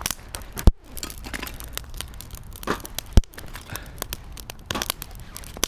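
Wood fire crackling, with two sharp pops, one about a second in and one about three seconds in.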